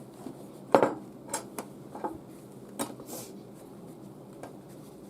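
A block of firewood being pushed into the top of a leather cowboy boot: a few short knocks and bumps as it is worked in, the loudest about a second in.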